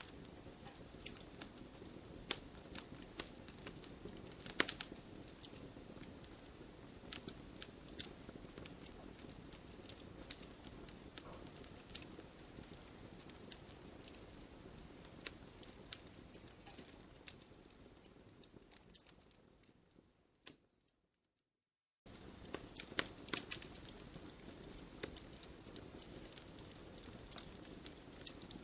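Campfire crackling and popping, with scattered sharp snaps over a soft low hiss of burning. About two-thirds of the way in, the sound fades to silence for about a second, then comes back suddenly at full strength, like a looped recording restarting.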